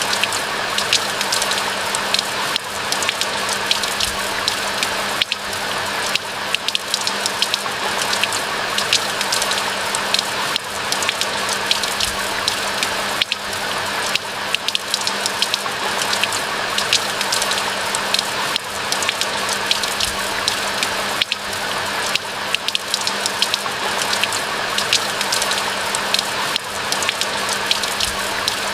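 Steady rain: a constant hiss of rainfall with dense, sharp individual drop impacts throughout.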